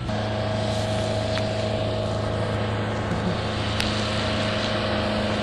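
A steady, even engine or motor drone with a constant low hum and a higher whine, starting abruptly.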